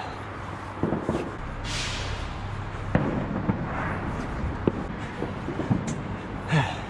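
Fireworks going off as scattered single pops and bangs, with a short hiss about two seconds in, over a steady background rumble.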